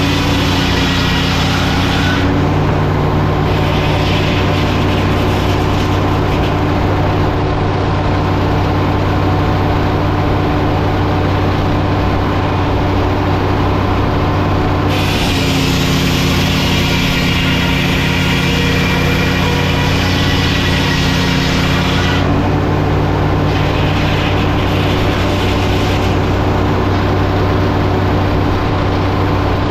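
Engine running steadily under a shifting load; its note steps slightly about two seconds in and again around the middle and near the end, with an added high hiss for several seconds in the second half.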